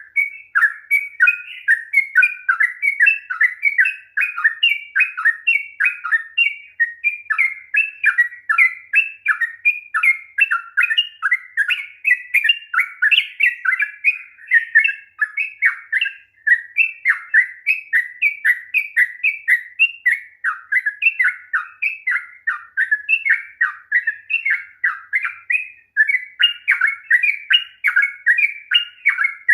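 Yellow-vented bulbul (trucukan) singing a long, rapid-fire 'ropel' song: a dense, unbroken stream of quick, liquid warbled notes, several a second, without pause.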